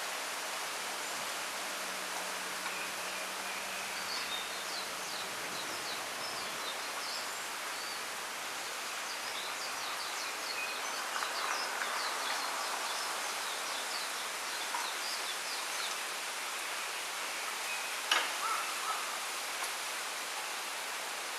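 Wind rustling the leaves of a bamboo grove as a steady hiss, with small songbirds chirping in quick high notes through most of it. A single sharp snap about eighteen seconds in is the loudest moment.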